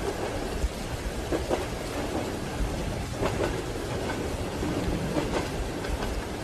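Train wheels clacking over rail joints, a double clack about every two seconds, over the steady low rumble of a moving railway carriage and the hiss of rain.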